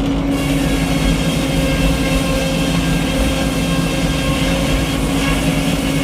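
Frick circular sawmill running steadily, its power unit a constant low drone, with a higher hiss joining in just after the start.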